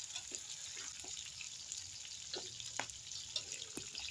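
Green beans deep-frying in hot oil in a wok: a faint, steady sizzle with scattered small crackles and a few light clicks as they are stirred with a metal spatula.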